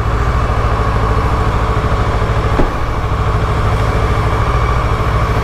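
Kawasaki ER-6n's 649 cc parallel-twin engine idling steadily while it warms up. It is still on its raised warm-up idle, which drops by itself once the engine is warm.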